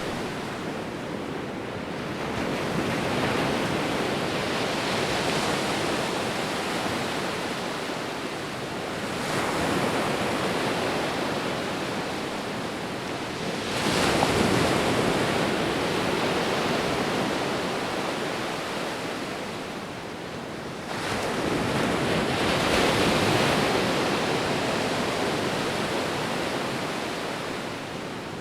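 Sea waves rolling in as surf. There are four surges, each swelling and fading over several seconds, and the sharpest one arrives about halfway through.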